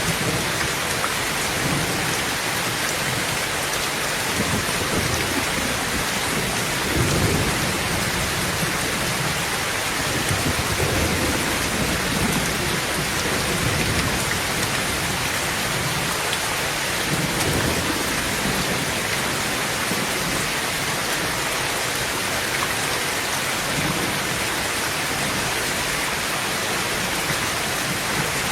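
Heavy rain drumming steadily on a tin tent roof, with low rolls of thunder rumbling through about a quarter of the way in and again around the middle.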